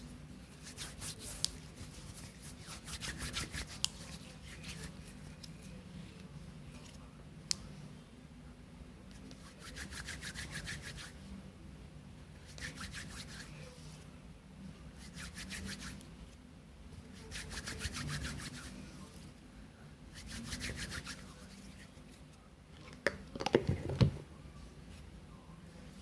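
Close-up ASMR rubbing strokes, roughly one every two to three seconds, with a few louder knocks near the end.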